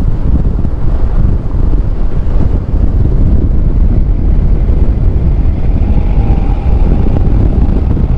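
1983 Chevy K10 diesel pickup driving, its engine rumble mixed with heavy wind buffeting on the microphone.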